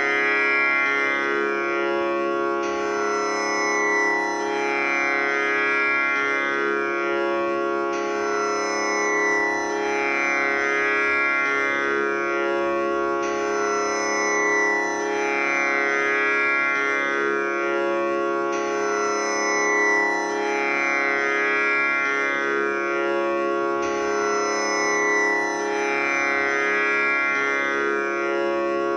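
Tanpura drone tuned to C#, its strings plucked in a steady cycle that repeats about every five seconds, the buzzing overtones ringing on without a break.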